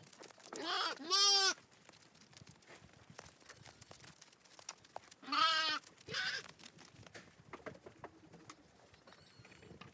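Sheep (ewes) bleating: two calls about a second in and two more about five seconds later, the first of each pair the louder.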